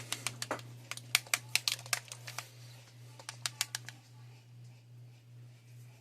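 A quick, irregular run of light clicks and taps over a steady low hum; the clicking stops about four seconds in.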